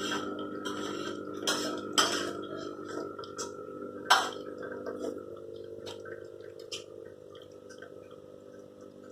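Espresso machine's pump humming steadily, growing quieter in the second half, with a few sharp clinks.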